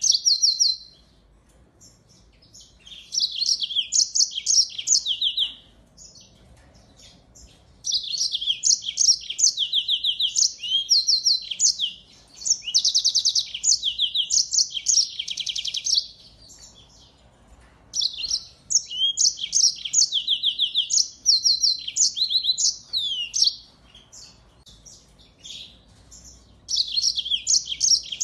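Finch song: bursts of rapid, trilled high chirps and repeated notes, each burst running a few seconds, with short pauses between.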